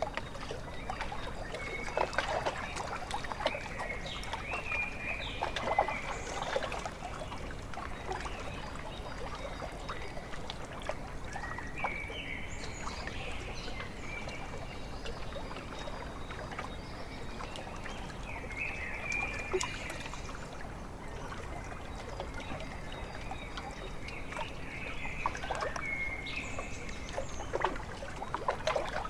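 Small waves lapping and trickling at a lake shore, with bird calls breaking in four times.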